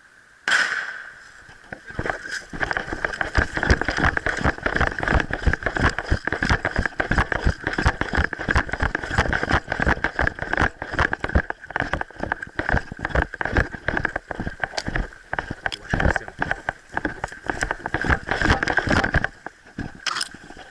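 Rapid, irregular knocking, crackling and rustling of an airsoft player moving with a body-worn camera: handling and movement noise, with a sudden loud knock about half a second in and another near the end.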